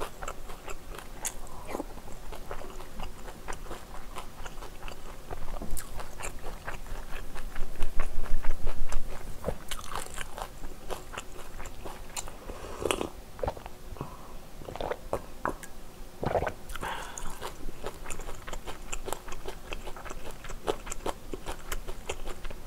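Close-miked chewing and mouth sounds of a person eating Korean food, with a dense run of small wet clicks. The sounds are loudest around eight seconds in, and a few heavier swallows come as she drinks from a glass partway through.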